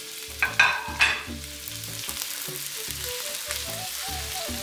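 Chopped garlic and green onion sizzling in hot oil in a steel wok over a high flame, stirred with a wooden spoon. A few louder bursts come about half a second to one second in.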